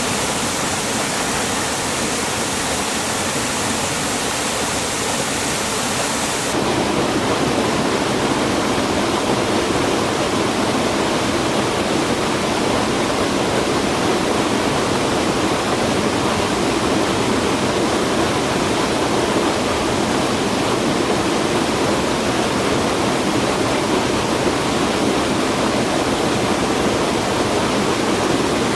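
Rushing water of a highland stream or waterfall, a steady loud rush. About six seconds in it changes abruptly to a deeper, fuller and slightly louder rush.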